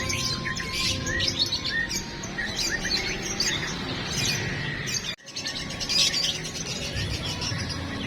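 Many caged competition songbirds singing and chirping at once in a dense chorus of quick trills and whistles. The sound cuts out briefly about five seconds in.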